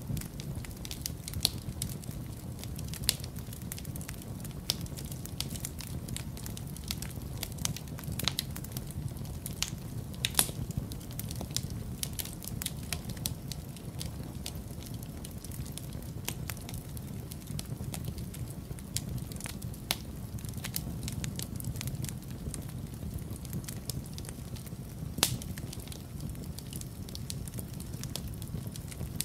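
Wood fire crackling in a fireplace: irregular sharp pops and snaps over a steady low rumble of the flames, with a few louder pops scattered through.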